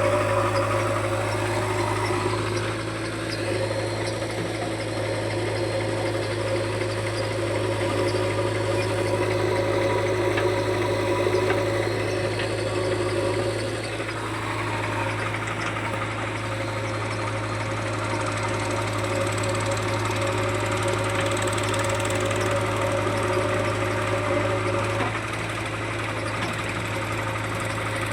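Heavy machine's diesel engine running steadily, its note shifting slightly a few times.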